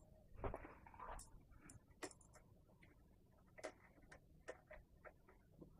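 Scattered light metallic clicks and taps of a 12 mm wrench working the rear mounting bolt of a motorcycle exhaust, at uneven intervals.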